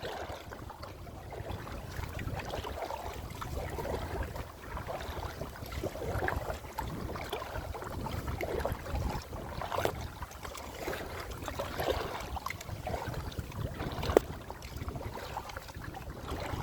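Kayak paddling: the paddle dipping and splashing in the lake water every second or two, over a steady low rumble of wind on the microphone, with one sharp knock about fourteen seconds in.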